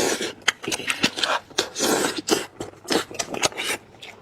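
Close-miked eating of braised lamb head meat: wet chewing and lip-smacking, with many sharp clicks in an irregular stream.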